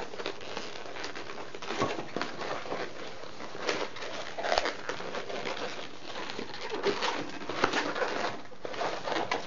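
Latex 260 modeling balloon squeaking and rubbing in irregular bursts as hands fold, squeeze, bend and twist it into loops.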